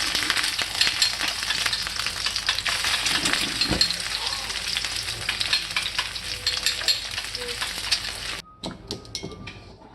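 Food frying and sizzling in a hot pan, with the scrape and clatter of stirring. The sizzle cuts off abruptly about eight seconds in, leaving a few light clinks.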